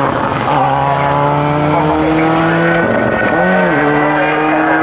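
Rally car engine running hard under load, its pitch climbing steadily. There is a short break about half a second in, and a quick rise and fall of revs around three seconds in, after which it keeps pulling.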